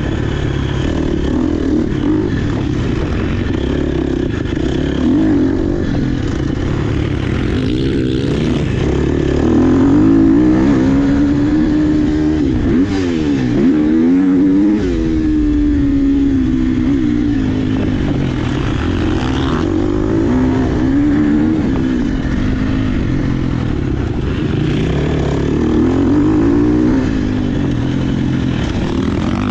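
Dirt bike engine being ridden hard, its note repeatedly climbing as the throttle opens and dropping back through gear changes.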